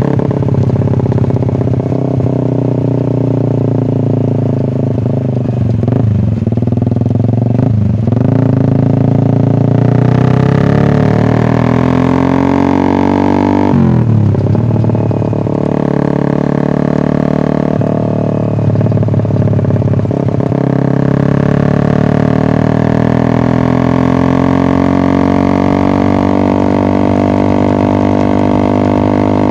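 Suzuki Satria FU 150 single-cylinder engine through an SC-Project aftermarket exhaust, running loud under throttle. Its pitch climbs steadily for several seconds at a time, with sharp drops about a quarter of the way in and again near the middle.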